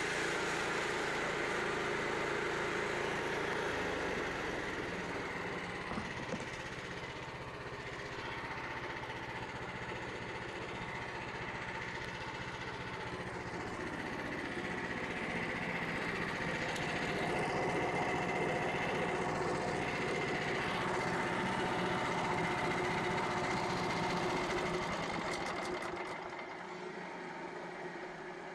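Frontier OS27 portable bandsaw mill running steadily, its small engine driving the band blade, with a steady high whine from the blade and drive. The sound eases a little near the end.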